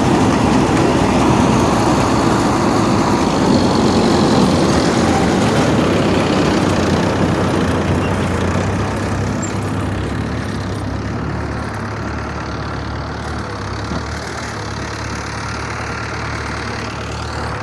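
Engine of a wheat-harvesting machine running steadily with a broad mechanical noise over it, growing gradually quieter, the higher part of the noise fading from about eight seconds in.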